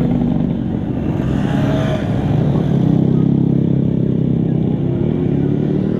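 Small motorcycle engine running as the bike is ridden slowly, its note growing louder about halfway through and then easing off.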